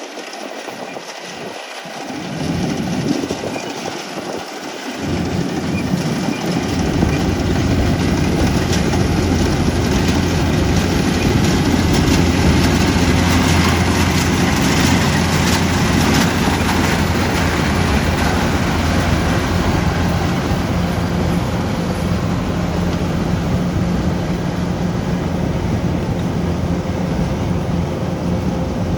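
Rice combine harvester running, its engine and machinery a steady low drone with a noisy rattle over it. The sound grows louder in steps over the first seven seconds or so, then holds steady.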